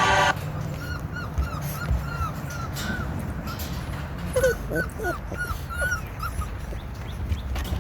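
XL American Bully puppies whimpering and squeaking in a run of short high cries, about three a second, with a few lower whines about halfway through.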